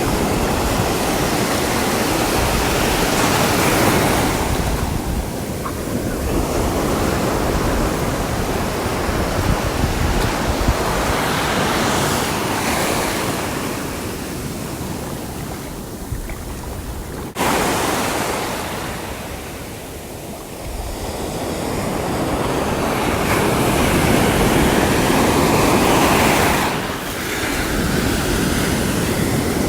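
Sea waves breaking and washing on a shore: a steady surf rush that swells and fades every few seconds, with an abrupt surge a little over halfway through.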